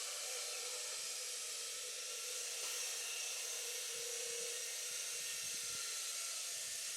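A steady, even high hiss without distinct events.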